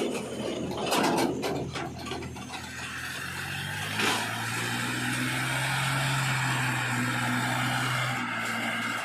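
Heavy diesel machinery running with a steady low hum. A quick series of knocks comes about a second in, and one sharp knock about four seconds in.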